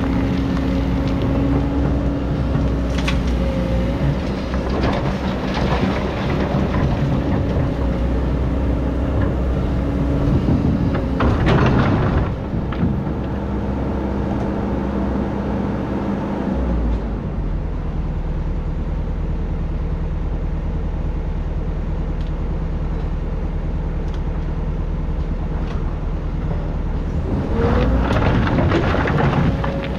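Excavator engine running steadily under working load, its note shifting twice as the machine works. A louder rushing noise rises over it about a third of the way in and again near the end.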